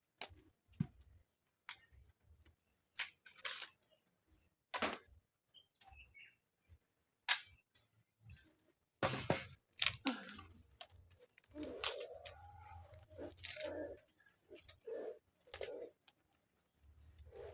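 Small dry sticks being gathered and snapped for kindling: irregular sharp cracks and crunches.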